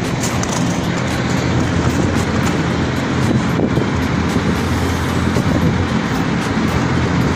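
A motor or engine running steadily with a low hum.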